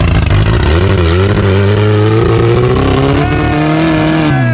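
Off-road 4x4 engine pulling under load, its pitch climbing steadily for a few seconds, then dropping off sharply near the end.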